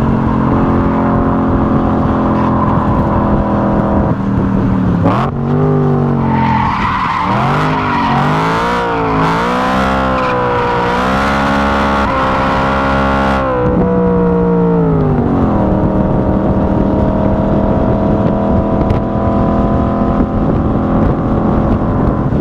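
BMW E92 M3's V8 engine at speed on track. The revs drop and jump back in a quick downshift about five seconds in, then waver through a corner while the tyres squeal for several seconds. After the revs fall away, the engine pulls slowly up through the revs on a straight.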